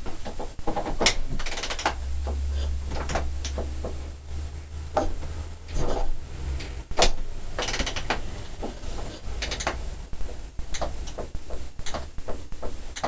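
Irregular clunks and rattles of a 1988 Honda CR250R two-stroke dirt bike being kick-started cold after sitting for months, the engine not yet running.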